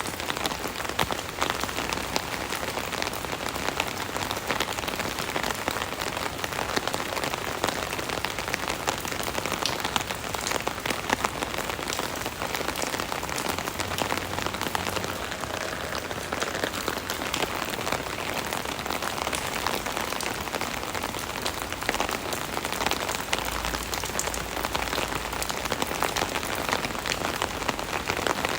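Steady rain drumming on an open umbrella canopy, a dense patter of individual drops hitting the fabric.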